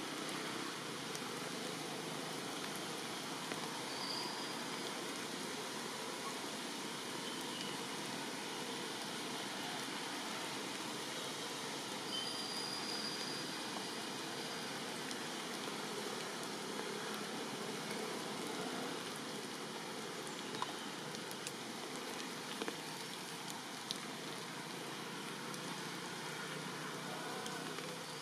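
Steady rainfall, an even hiss with scattered faint drop ticks, and a few brief faint high-pitched tones.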